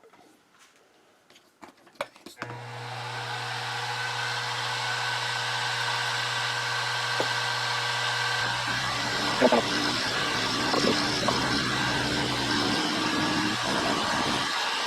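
A few clicks, then about two and a half seconds in a milling machine's motor starts and runs with a steady hum. From about eight seconds in, the cutter bites into the metal workpiece and adds a rougher cutting noise over the hum.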